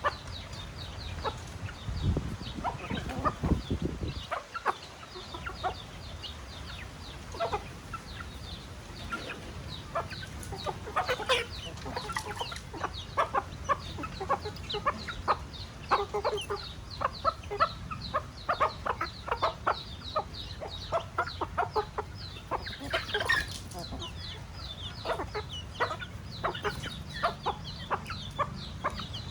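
Chickens clucking and chirping, many short calls overlapping in a steady flock chatter, with a brief low rumble a couple of seconds in.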